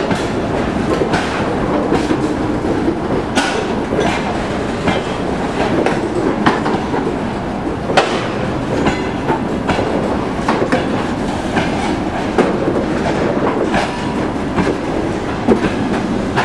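Loaded hopper wagons of a freight train rolling past: a steady rumble of steel wheels on rail, with irregular sharp clicks and knocks from the wheels and running gear.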